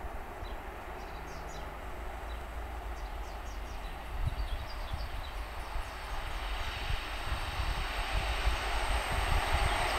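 An approaching SKM EN57 electric multiple unit, heard before it comes into view, its noise growing steadily louder through the second half. Small birds chirp over it in the first half.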